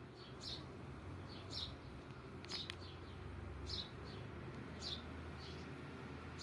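A pet bird chirping: short high chirps, about one or two a second, over a low steady hum.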